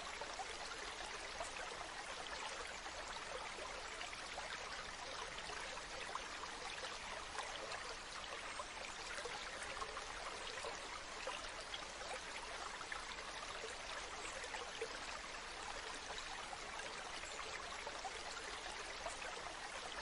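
Waterfall: water falling and splashing steadily, with fine spattering detail.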